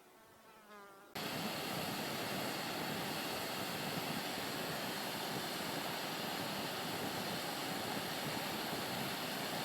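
Steady, even rushing noise that starts abruptly about a second in and holds level throughout.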